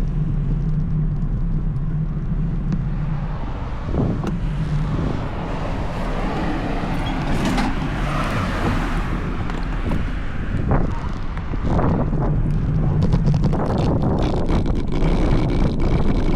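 Wind rushing over the microphone and road noise from a road bike riding along, with a few brief knocks and rattles.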